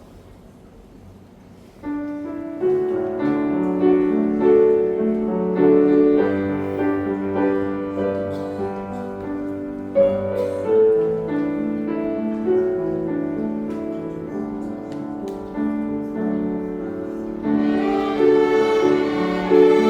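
A string ensemble with piano begins playing a hymn about two seconds in, after a short quiet pause; the sound grows fuller near the end.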